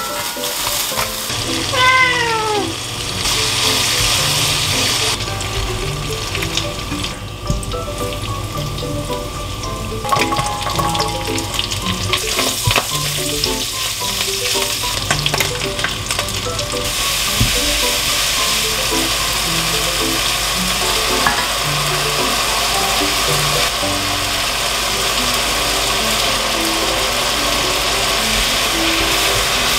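Thin-sliced pork belly sizzling in a stainless steel wok as it is stirred and browned over medium heat. The sizzle is loud about one to five seconds in, eases off, then comes back louder and holds steady from about halfway on.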